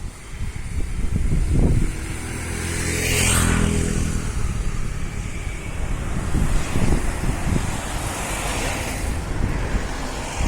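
A motor vehicle passing close by about three seconds in, its engine note swelling and fading, over wind buffeting the microphone; another vehicle swells and passes more softly later on.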